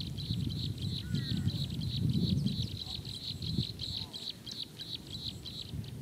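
Small birds chirping: a rapid, even series of short high chirps, about five a second, over a low rumble that swells about two seconds in.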